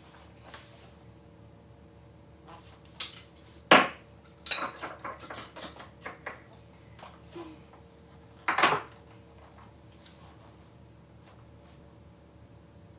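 Kitchen utensils and containers clinking and knocking: a sharp knock about four seconds in, a quick run of clinks after it, and another loud knock near nine seconds.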